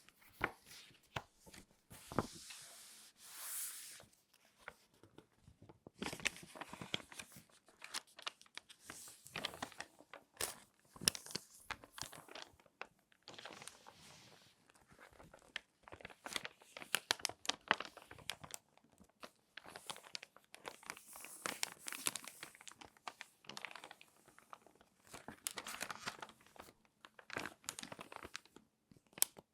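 Crinkly magazine pages being folded and creased by hand: a dense, irregular run of sharp crackles and clicks, with now and then a longer sliding rustle as a page is drawn over.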